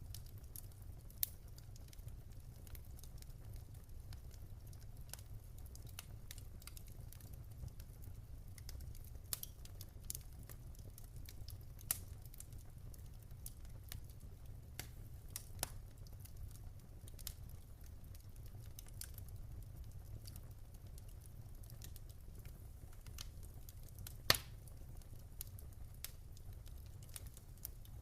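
Wood fire crackling in a fireplace: irregular sharp pops and snaps over a low steady rumble of the flames, with the loudest pop a little before the end.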